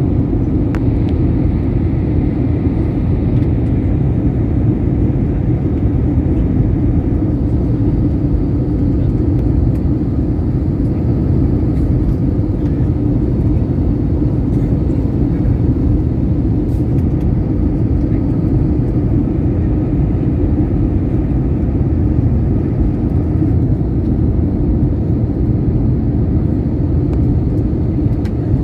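Steady low rumble of a plane, heard as an even noise with no rise or fall.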